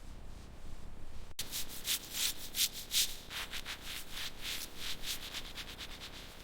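Quick, repeated rubbing strokes on a surface, several a second, each with a hiss. There is a brief break about a second and a half in, then the strokes come louder before fading toward the end.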